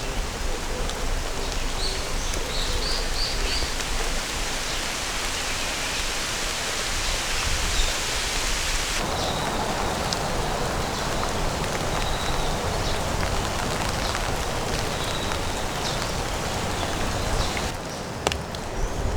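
Steady rain falling, an even hiss. Its sound changes abruptly about halfway through and again near the end.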